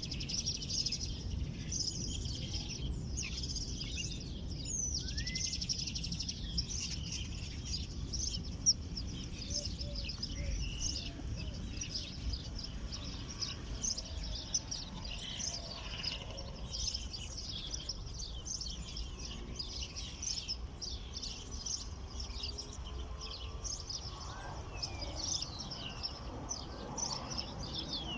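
Many small wild birds chirping and calling at once, a dense run of short high notes and quick glides that goes on without a break, over a steady low rumble of background noise.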